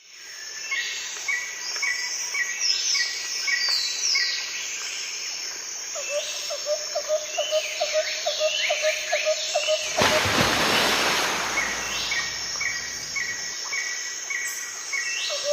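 Several birds singing and calling together: rows of short repeated chirps and quick falling whistled notes, with a rapid pulsing call lower down through the middle. A loud rushing noise breaks in briefly about ten seconds in.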